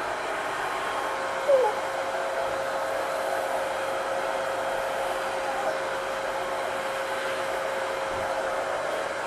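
Vacuum cleaner running steadily, its motor whining at one steady pitch. About a second and a half in, a short squeak that falls in pitch stands out over it.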